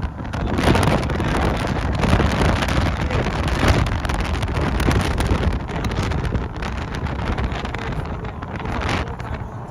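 Strong wind buffeting the microphone: a loud, gusting rush of noise that eases a little near the end.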